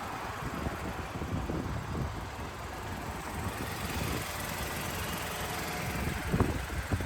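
Car engine idling steadily, with a single knock or thump about six seconds in.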